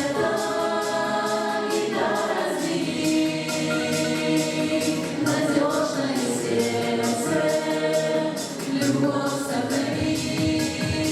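A vocal ensemble sings long held chords in harmony over a backing track with a steady beat.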